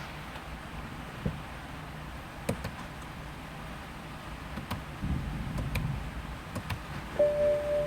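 A few separate sharp clicks over a low steady hum, then near the end a steady pitched tone starts and holds.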